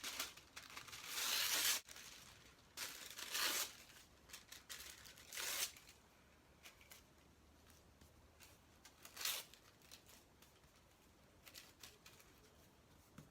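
Tissue paper being torn by hand in several rips, the longest lasting over a second near the start, with fainter paper rustling between.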